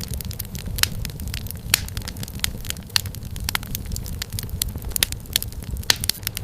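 Wood fire crackling: irregular sharp pops and snaps of burning firewood over a steady low rumble of flame.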